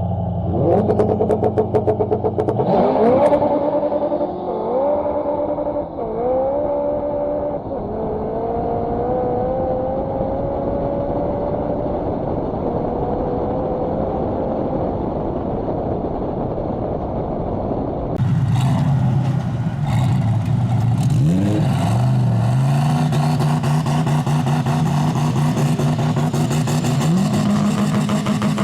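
Car engine accelerating hard in a street race, its pitch climbing steeply and then dropping and rising again about three times in quick succession as it shifts up through the gears, before holding a high, slowly rising note. After an abrupt change about two-thirds of the way through, a lower engine idles steadily with short revs.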